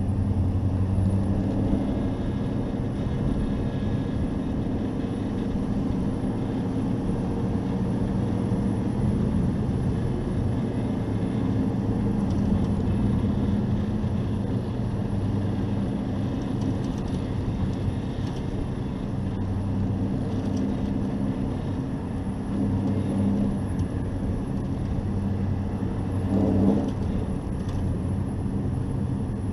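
Hobby stock race truck's engine running steadily, heard from an onboard camera, its pitch holding fairly even over a haze of wind and road noise. A brief louder swell comes near the end.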